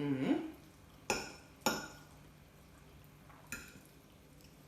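Cutlery clinking against a dish three times, each a sharp click with a short ring, the first two close together and the third a couple of seconds later.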